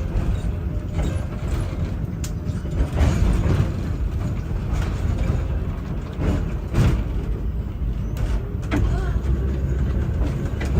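Chicago Surface Lines electric streetcar running along its track: a steady low rumble of the car rolling, with irregular knocks and rattles from the wheels and body.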